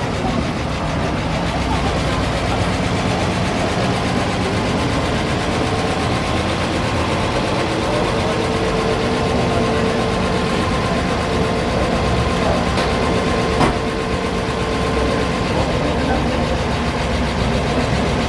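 A vehicle engine idling steadily, with people talking in the background. A single sharp click comes about two thirds of the way through.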